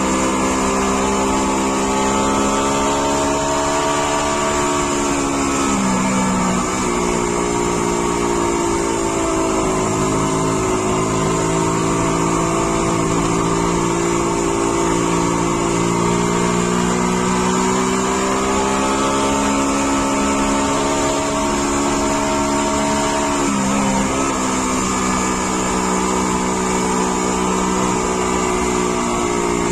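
Car engine running under way, heard from inside the car: a steady drone whose pitch wanders up and down with engine speed and drops sharply twice, about six seconds in and again near the end.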